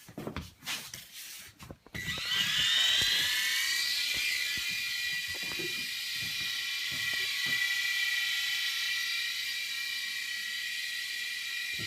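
Small electric motor of a toy RC helicopter whining, rising in pitch as it spins up about two seconds in, then holding a steady high whine. Light clicks and knocks come before the spin-up.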